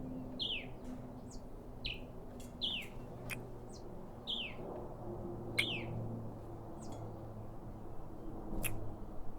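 Birds chirping in short calls that slide downward in pitch, about one a second, over a faint low steady hum, with a few light clicks.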